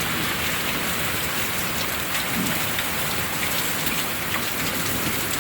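Steady rain from a summer hailstorm pouring down, with many small sharp ticks of drops and hailstones striking hard surfaces.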